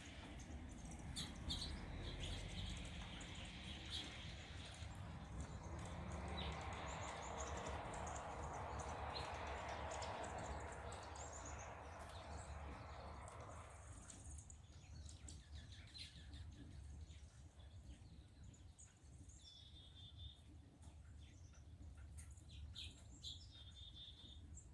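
Songbirds chirping, short high calls scattered throughout. A rushing noise swells in the first half and stops abruptly about fourteen seconds in.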